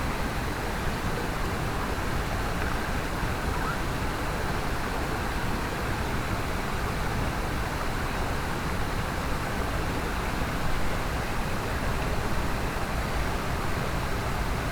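Mountain stream rushing over rocks: a steady, even flow of water.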